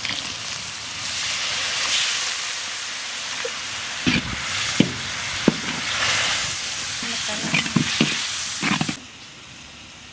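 Sliced onions and spices sizzling as they fry in oil in a large metal wok, stirred with a flat metal spatula that scrapes and clicks against the pan several times. The sizzling stops abruptly about nine seconds in.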